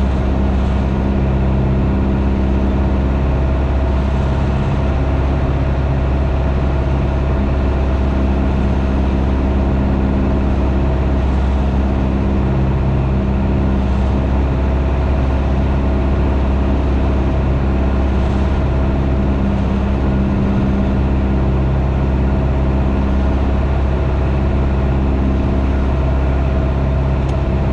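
Piper PA28's piston engine and propeller droning steadily in the cockpit, holding even power in level flight.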